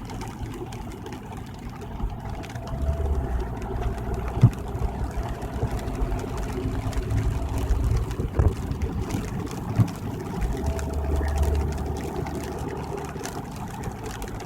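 Inside a car driving on a wet highway: steady low tyre-and-engine rumble that swells twice, with a few sharp low thumps several seconds apart.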